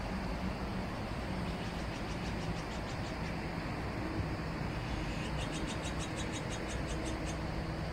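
Outdoor ambience: a steady low rumble with a bird's high, rapid trill of about eight notes a second. The trill is faint around two to three seconds in and clearer from about five to seven seconds in.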